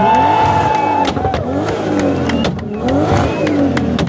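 A modified car's engine being revved hard through its exhaust. It is held high at the start, drops about a second in, then is revved up and back down again, with scattered sharp pops.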